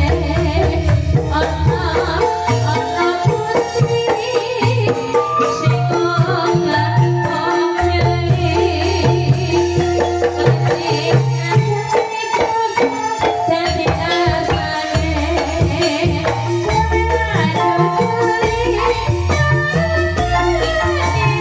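Calung Banyumasan music: bamboo xylophones playing a busy melody over hand drums and deep bass notes that change every second or so.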